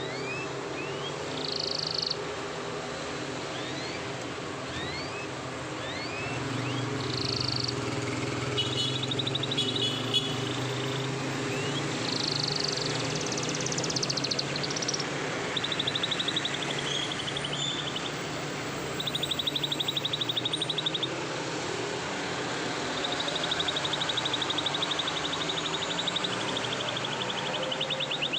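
Canary singing: short rising chirps at first, then several rapid rolling trills of a few seconds each. A steady low hum runs underneath.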